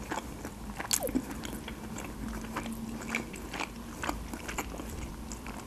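Close-miked chewing of soft stuffed cabbage rolls, with scattered small wet mouth clicks and a sharper click about a second in.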